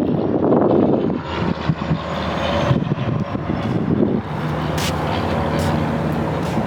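Wind buffeting the microphone for about the first second, then a motor engine running with a steady hum.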